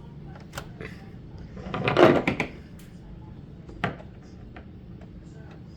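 Handling noises at a sewing machine once the stitching has stopped: a short clattering rustle about two seconds in, a single sharp click a second and a half later, and a few faint ticks.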